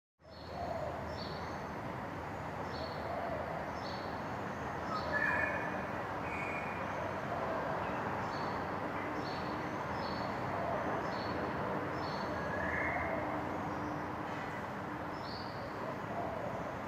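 Birds calling: short high chirps repeating roughly once or twice a second, with a few lower calls about five and thirteen seconds in, over a steady background rumble.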